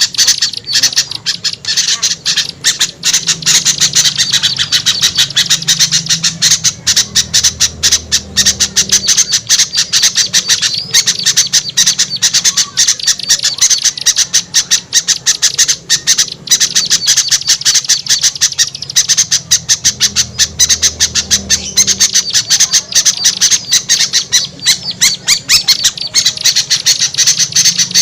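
A loud, dense chorus of many small songbirds chattering and squawking rapidly without pause: a mixed bird-lure recording of agitated, 'noisy' small birds used to call wild birds down.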